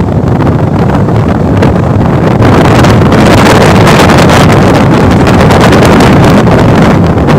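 Wind rushing and buffeting the microphone over the running noise of the Karnataka Sampark Kranti Express travelling at speed; it gets louder about two and a half seconds in.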